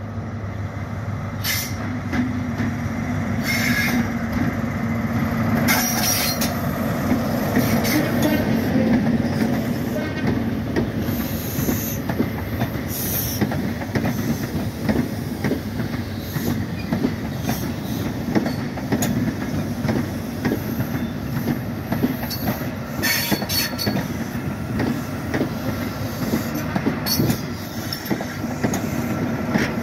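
A Class 43 InterCity 125 diesel HST passes slowly: the engine hum of the leading power car builds over the first few seconds, then the Mk3 coaches roll by, their wheels clicking over rail joints, with occasional high wheel squeals.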